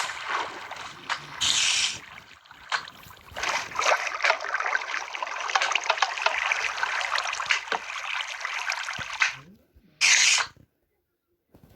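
Water splashing and sloshing in an irregular, crackly rush. A short, sharp hiss comes about ten seconds in.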